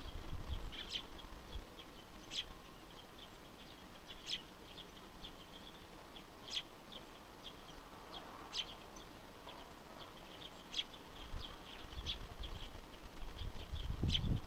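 Wild birds calling: a steady stream of short, high chirps, with a sharper, louder call about every two seconds. The calls are typical of fledglings begging parent birds for food. A low rumble comes in near the end.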